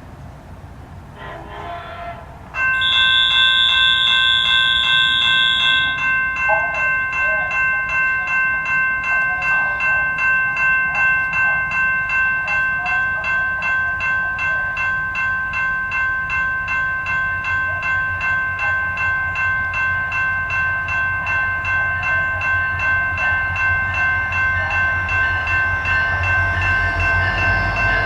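Railroad grade-crossing bell starts ringing suddenly a few seconds in, keeping a steady ring of about two strikes a second. The low rumble of an approaching train builds underneath toward the end.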